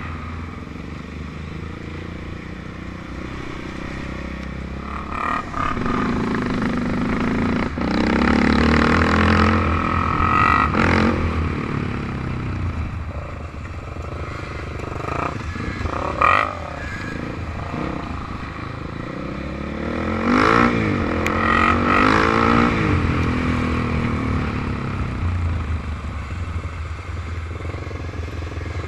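Off-road motor vehicle engines running, with louder stretches of revving about eight seconds in and again about twenty seconds in, where the pitch rises and falls.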